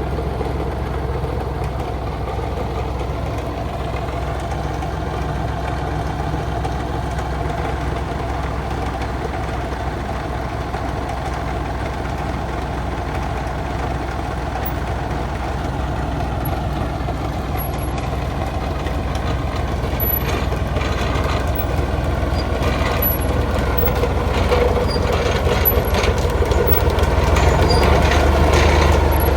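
An old heavy truck's engine running steadily, growing louder over the last third, with a few knocks and rattles near the end.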